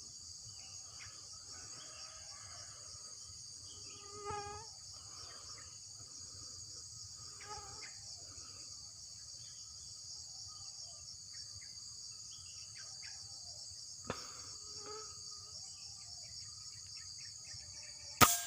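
Steady, high-pitched night chorus of crickets and other insects, with a few faint lower calls. Near the end there is a single sharp shot, the hunter's rifle fired at a dove.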